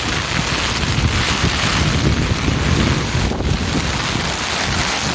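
Steady rushing of a typhoon-swollen river in flood, with gusts of wind buffeting the microphone.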